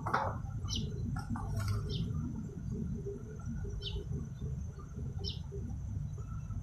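A bird chirping in short, high single notes every second or two, over a steady low rumble. A brief burst of rustling noise comes right at the start.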